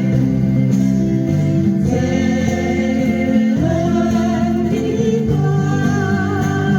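Several voices singing a slow folk song together, accompanied by strummed acoustic guitars.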